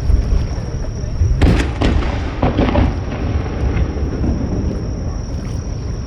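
Fireworks exploding: one sharp bang about one and a half seconds in, then a burst of crackling a second later, over a steady low rumble of wind and surf at the shoreline.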